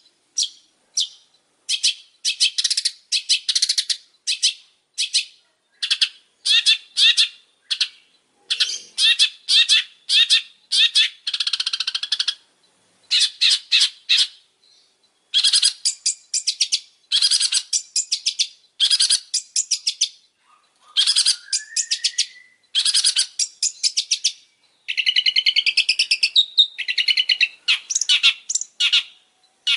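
Long-tailed shrike (pentet) singing continuously in rapid runs of short, harsh chattering notes. About two-thirds of the way through there is a rising whistle, and near the end a longer warbling phrase.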